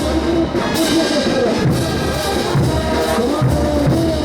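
Bolivian brass band playing ch'uta carnival dance music: a brass melody over a steady bass drum beat.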